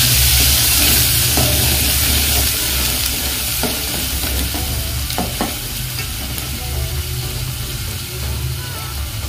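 Ground onion paste sizzling in hot mustard oil in a metal pot while being stirred with a steel slotted spatula, with a few sharp scrapes of the spatula against the pot around the middle. The sizzle slowly dies down as the paste starts to fry.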